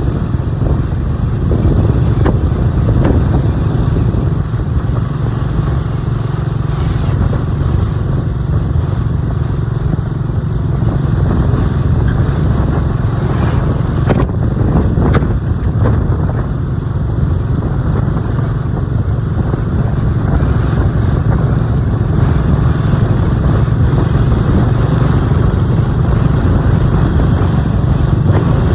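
Motorcycle engine running steadily while riding, heard as a continuous low drone without speech.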